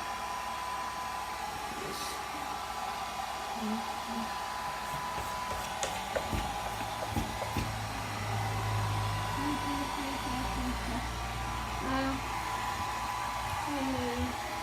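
Hand-held hair dryer running steadily with a continuous blowing hiss and a faint whine. A few sharp clicks around the middle are the cat scratching at the door, and short low voice-like sounds come and go.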